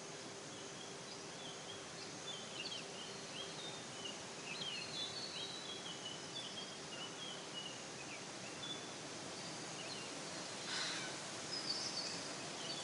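Outdoor nature ambience over a steady background hiss, with small birds chirping and trilling in short high calls through most of it. A brief louder rustle or swish comes about 11 s in.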